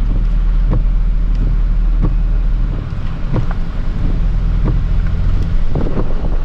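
Steady low engine and road rumble heard from inside a moving vehicle's cabin, with a regular sharp tick about every two-thirds of a second.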